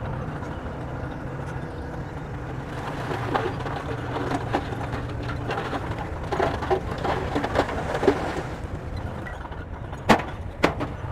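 Bulldozer's diesel engine running steadily with a low rumble, with a run of metallic clanks and rattles through the middle and two sharp knocks near the end.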